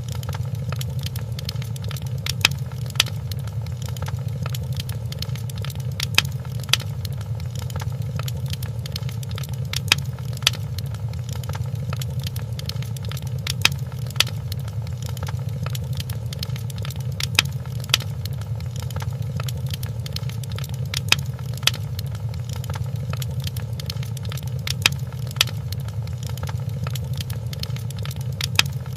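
Wood fire crackling in a fireplace: a steady low rumble with constant small crackles and a louder pair of pops about every four seconds.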